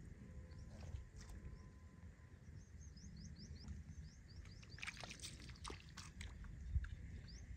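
Faint outdoor ambience: a small bird chirping a quick run of high notes, with wind rumbling on the microphone. A few sharp clicks come around five seconds in.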